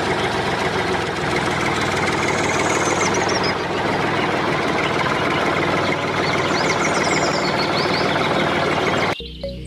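A small motor running steadily with a fast rattle, cutting off abruptly near the end; a few faint high chirps sound over it.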